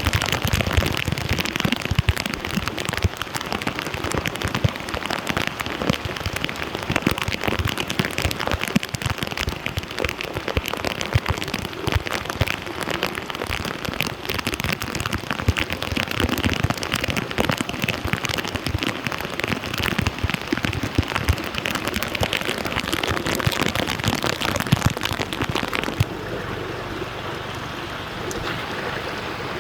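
Heavy rain pattering onto flooded street water, a dense crackling patter of drops. Near the end it changes to a smoother, slightly quieter steady rush of flowing water.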